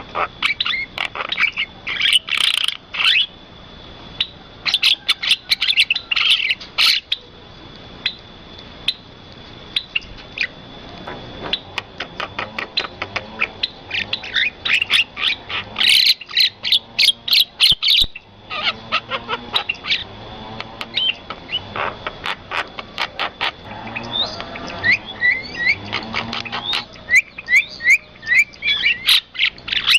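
Birds chirping and calling rapidly and almost without pause: many short, sharp notes, with a few harsher, lower squawk-like calls around the middle and later. A thin, steady high tone runs underneath.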